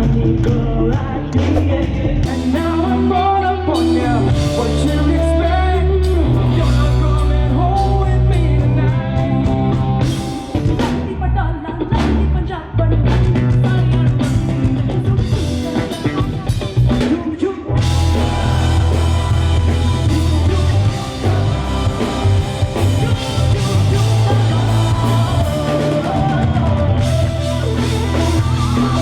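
Live rock band performing: a singer over electric guitar, bass and drum kit.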